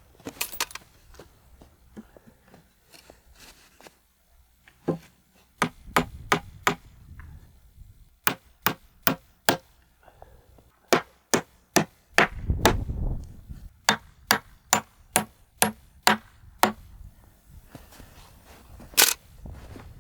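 Repeated sharp, ringing strikes, like tool blows, in runs of several about two a second with pauses between runs. A low rumble comes in about twelve seconds in.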